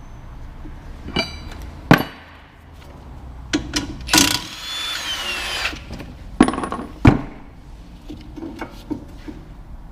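Metal tools clanking and knocking against metal parts during front wheel bearing work on the car, with several hard hits and one clank that rings. Just after four seconds in there is a noisy burst of grinding and rattling lasting about a second and a half.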